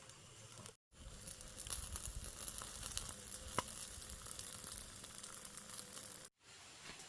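Rat meat sizzling as it grills over a fire, with scattered sharp crackles. The sound drops out briefly twice, about a second in and near the end.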